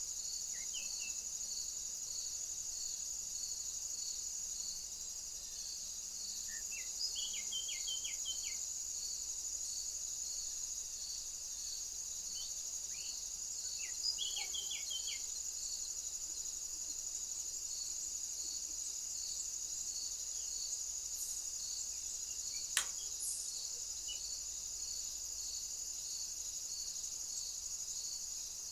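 A chorus of crickets shrilling steadily and high, with one insect chirping in even pulses a little over once a second. Short chirps from a small bird come about seven and fourteen seconds in, and a single sharp click near the end.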